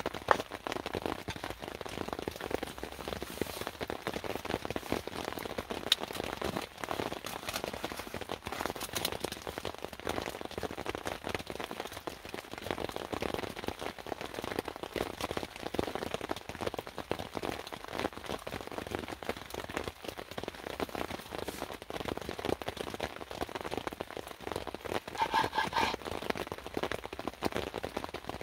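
Rain and water dripping, a dense, steady patter of drops. About 25 seconds in there is a brief pitched sound.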